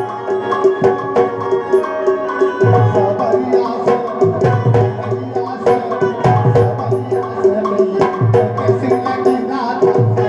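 Instrumental passage of Indian folk music: steady held tones over a fast drum rhythm, with sharp clicking percussion strokes and deep drum beats.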